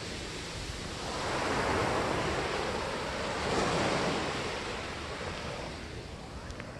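Sea waves washing onto the shore, surging in twice and ebbing, with wind buffeting the microphone.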